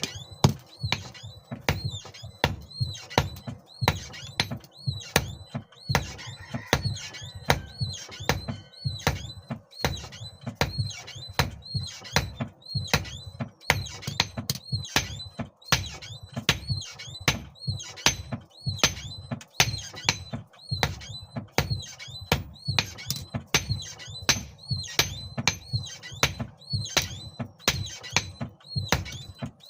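Hand hammer striking hot steel on an anvil, about two blows a second, each with a short metallic ring: a hex nut being forged out into a knife blank.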